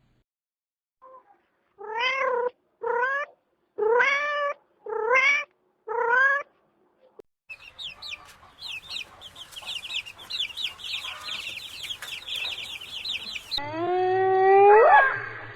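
A cat meowing five times, each call rising in pitch, about a second apart. After that comes a fast run of short, high, falling chirps lasting several seconds, and then a loud rising call near the end.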